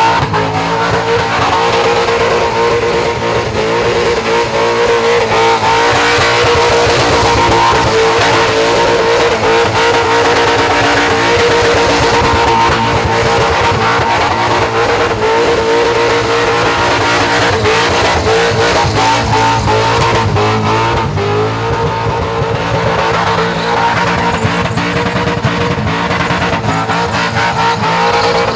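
Supercharged V8 in a Holden Commodore ute held at high, fairly steady revs through a long burnout, with the rear tyres spinning and screeching against the pad.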